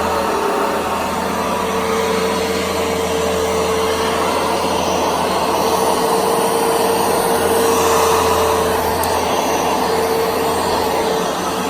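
Carpet shampooer running on carpet: a steady motor whine over the rush of suction, swelling a little about eight seconds in.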